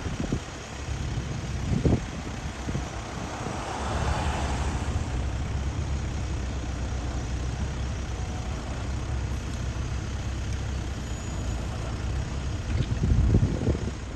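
Motor vehicles on a highway: a steady low engine rumble, with a louder swell about four seconds in, as of a vehicle passing, and low thumps near the start and near the end.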